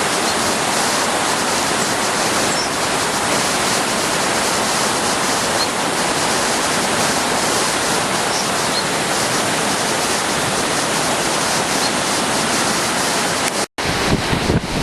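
Floodwater rushing steadily, an even wash of water noise. Near the end it cuts off for an instant and gives way to gusty wind buffeting the microphone.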